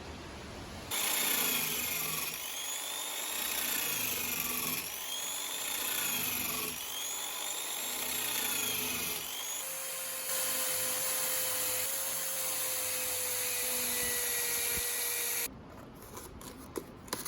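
A power tool running against the workpiece, its pitch rising and falling in passes about every two seconds, then holding a steadier tone before it cuts off suddenly near the end.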